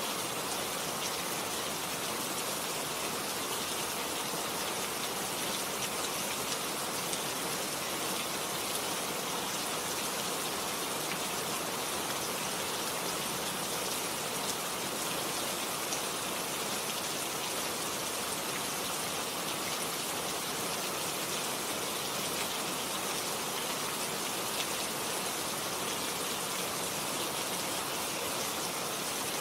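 Steady rain falling, an even, unbroken hiss of drops with no rise or fall.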